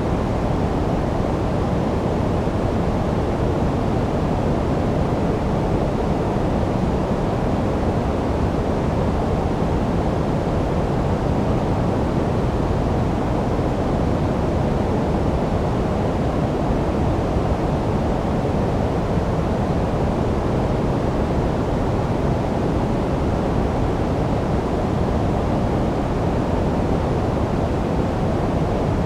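Steady generated noise for sleep, even and unchanging, with most of its energy low and little hiss on top, closer to pink or brown noise than flat white noise.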